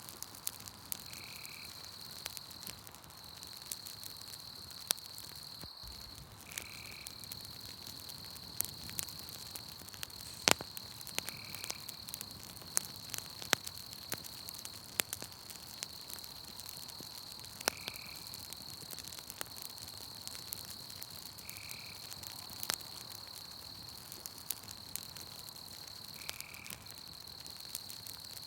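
Campfire crackling with scattered sharp pops, over a steady high-pitched insect trill in a night forest. A short, lower call repeats six times, every four to six seconds.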